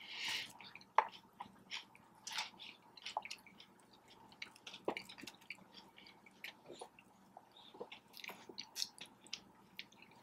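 A person chewing and biting into a cheesesteak sub sandwich, close to the microphone, with scattered small clicks and mouth smacks.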